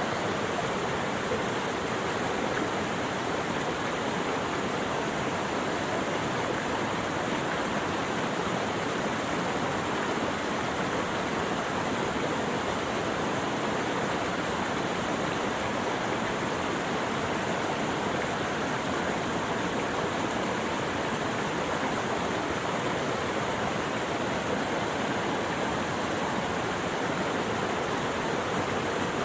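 Steady rush of running water, like a stream or small waterfall, even and unchanging with no birds or other sounds standing out.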